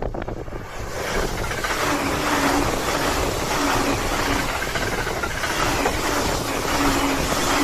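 E235-1000 series electric train running past: a steady noise of wheels on rail that builds over the first second and then holds, with a faint low hum that comes and goes.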